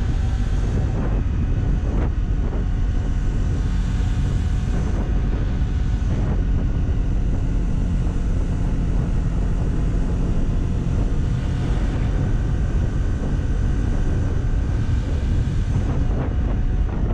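Kawasaki Ninja 400's parallel-twin engine running under way, with wind rushing over the microphone. The engine note holds steady through the middle.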